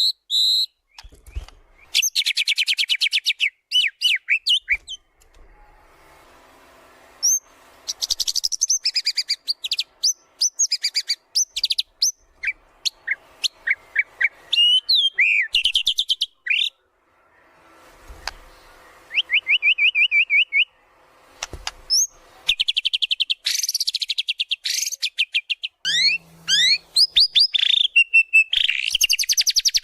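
White-rumped shama (murai batu) in full song: fast high trills, rattling runs and sweeping whistles come in bursts separated by short pauses, packed with mimicked phrases of other birds.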